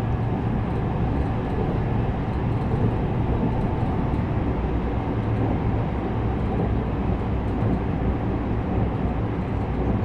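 JR West 321 series electric train running between stations, heard from inside the passenger car: a steady rumble of wheels on rails and running gear.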